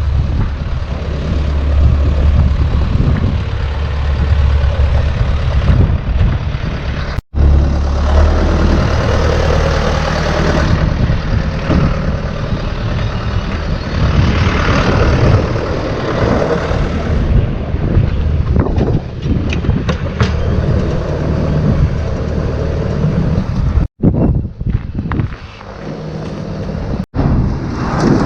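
A heavy vehicle engine running steadily under loud, rushing outdoor noise, in several clips joined by abrupt cuts.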